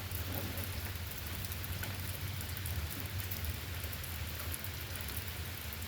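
Steady rain falling, an even hiss with scattered drop ticks, over a low steady rumble.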